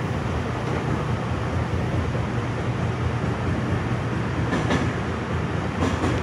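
Electric commuter train running, heard from inside the car: a steady rumble of wheels on rail with a low motor hum, and two faint rail clicks near the end.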